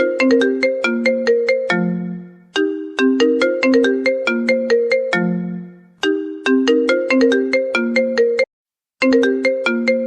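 Phone ringtone: a short melody of bright plucked notes, ending on a longer low note, that loops about every three and a half seconds. It cuts out briefly near the end.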